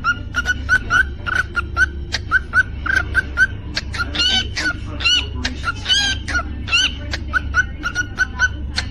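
Cockatiel chirping a quick run of short repeated notes, about three a second, with a few louder rising whistles about four to six seconds in and sharp clicks among them.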